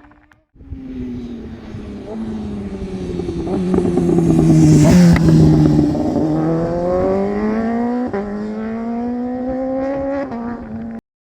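Inline-four engine of a 2015 BMW S1000RR sportbike with a loud aftermarket exhaust passing at speed. It grows louder up to about five seconds in, where its pitch drops as it goes by, then climbs steadily in pitch with a brief break near eight seconds, and cuts off abruptly near the end.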